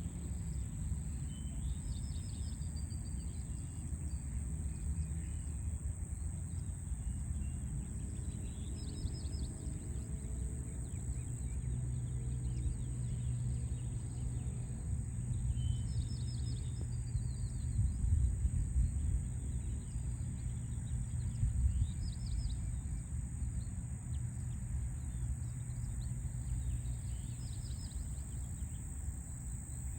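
A bird singing short, rapid trilled phrases every few seconds over the steady low rumble of city traffic, with a constant high-pitched whine throughout.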